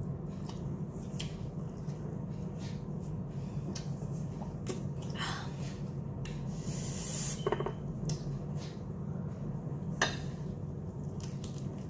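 Close-up eating sounds of a person chewing and biting fried, sauce-coated chicken lollipops: wet mouth clicks and smacks scattered throughout, over a steady low hum. A short hissy breath comes around the middle, and a sharp click about ten seconds in is the loudest sound.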